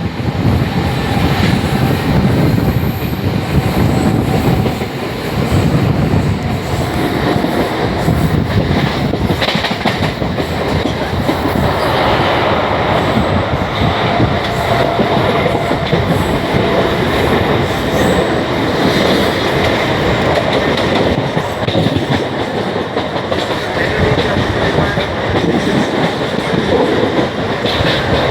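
Mumbai suburban electric train running, its wheels clattering over the rails in a steady loud rumble.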